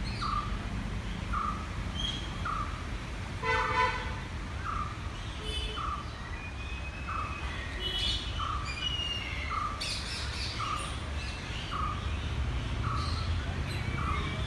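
Birds calling: one bird repeats a short note steadily, about one and a half times a second, while others chirp and whistle over it. A brief honk-like call sounds about three and a half seconds in.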